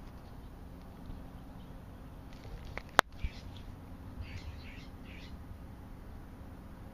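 Small birds chirping in short, scattered bursts, over a steady low hum, with one sharp click about three seconds in.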